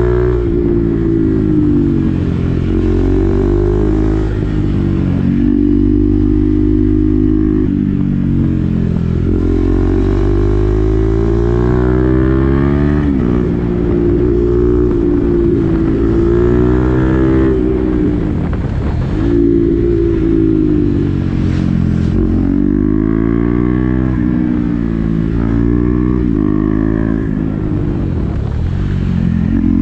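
KTM Duke 390's single-cylinder engine through an SC-Project exhaust with the dB killer fitted, ridden on the road. The revs climb again and again and drop at each gear change, with a couple of longer falls as the bike slows.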